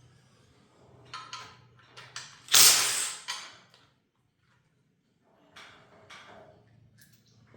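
Tools and metal engine parts handled during an engine teardown: scattered clicks and knocks, and one loud rattling clatter about two and a half seconds in, with a faint low hum underneath.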